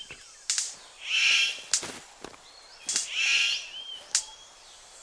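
Male superb bird of paradise giving two harsh calls about two seconds apart, with a few sharp clicks in between.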